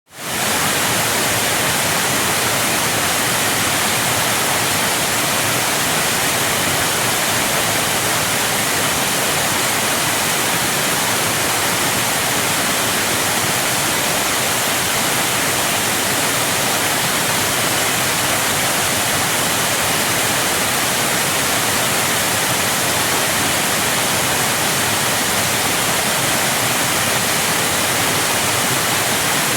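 Steady rushing water, an even, unbroken hiss without pauses or changes.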